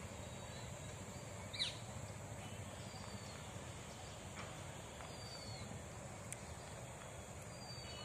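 Birds calling in the trees: one short, sharp call falling in pitch about a second and a half in, and a few faint thin downward whistles later, over a steady high hiss.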